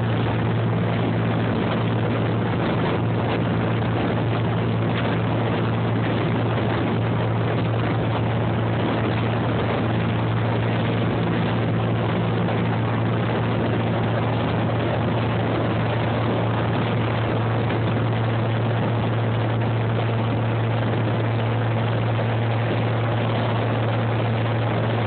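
Motorboat engine running steadily at a constant pitch, with a deep hum and a rushing noise over it.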